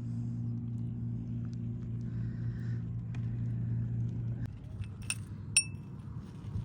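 A steady low motor hum that cuts off about four and a half seconds in, followed by two sharp clinks with a brief ringing tone.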